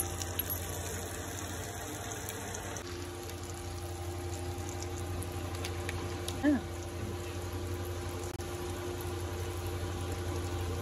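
Onions and green chillies frying gently in oil in an aluminium kadhai over a gas burner: a steady low hum and faint hiss with scattered small crackles. A brief louder sound with a falling pitch comes about six and a half seconds in.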